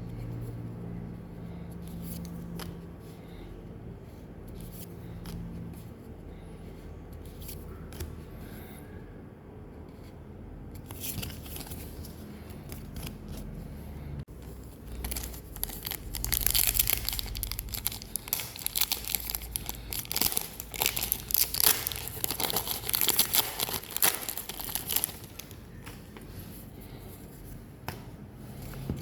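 Pokémon card packaging being torn open and crinkled. There are sparse crackles at first, then a dense stretch of tearing and crinkling that starts about a third of the way in, is loudest through the middle and eases off near the end.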